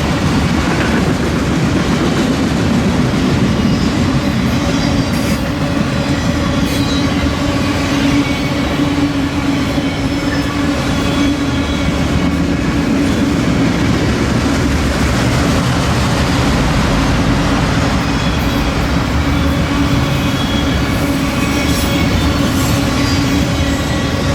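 Freight train of auto rack cars rolling past, a steady loud rumble and clatter of wheels on the rails with faint thin wheel squeal at times.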